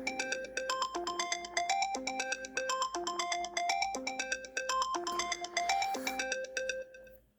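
An old iPhone ringtone playing: a bright, bell-like melodic figure repeating about once a second, fading out near the end.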